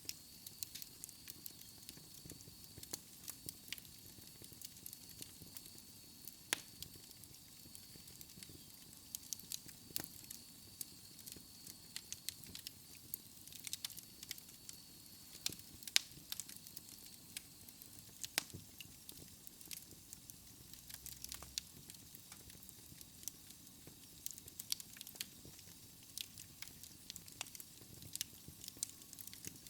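Wood fire in a fireplace crackling, with frequent irregular sharp pops over a soft, steady low hiss of flame.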